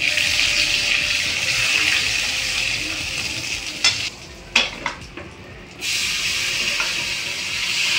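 Whole spices and red chilli frying in hot mustard oil in a kadhai: a loud, steady sizzle as a spatula stirs. About four seconds in, the sizzle dies down and the spatula clanks against the metal a few times. Near six seconds the sizzle flares up again as the marinated jackfruit is tipped into the hot oil.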